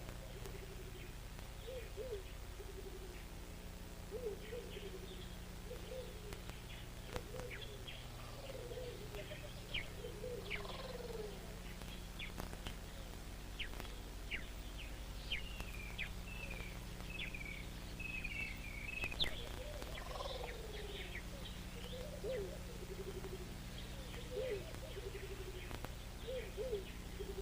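Several birds calling: scattered short high chirps, a warbling run of notes a little past the middle, and repeated short low calls. A steady low hum runs underneath.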